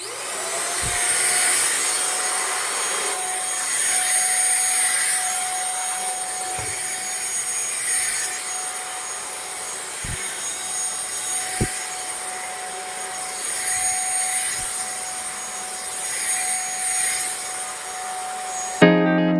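Handheld vacuum cleaner switched on, its motor spinning up in the first moment to a steady whine, then running with a rush of air that swells and fades as it is worked over a surface. A few soft knocks come through along the way.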